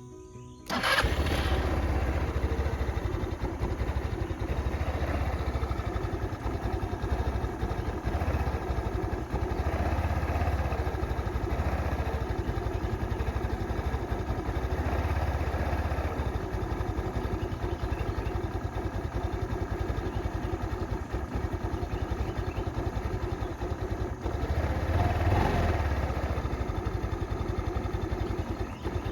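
GY6-type 150cc scooter engine starting suddenly about a second in and running unevenly on a cold start, its low pulsing rising and falling. It struggles because it is cold, before the enricher and the engine have warmed up.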